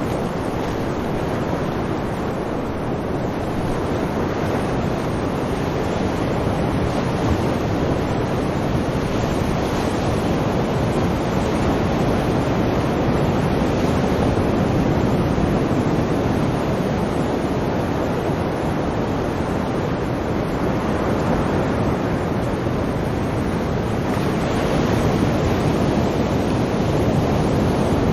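Sea surf washing in continuously, a steady rushing wash that swells gently and grows a little louder near the end.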